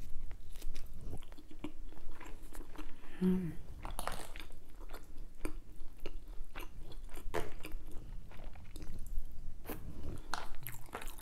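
A person chewing and biting food close to the microphone: wet mouth clicks and crunchy snaps come throughout, with a brief low hum about three seconds in.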